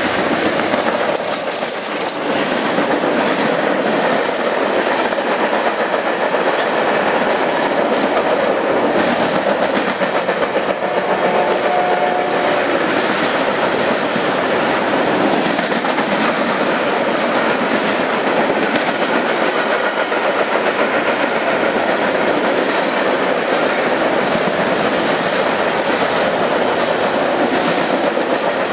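Union Pacific freight train rolling past at speed: a loud, steady rumble of wheels on rail with a fast clickety-clack.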